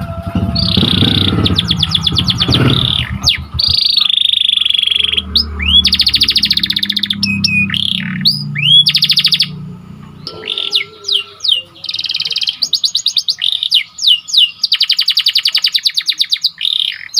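Domestic canary singing: fast rolling trills and short upswept whistled notes, repeated in phrases. A low background rumble runs under the song for roughly the first ten seconds.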